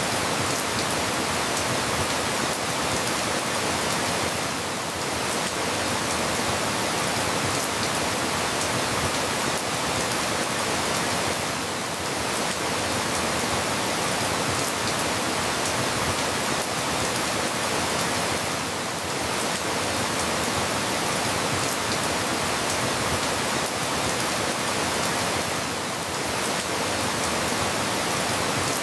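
Steady rain falling, an even hiss with slight dips in loudness about every seven seconds.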